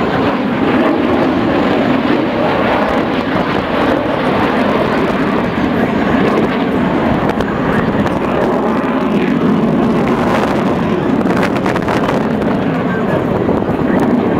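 Steady, loud rushing jet noise from a C-17 Globemaster III's four Pratt & Whitney F117 turbofan engines as it flies its air show demonstration.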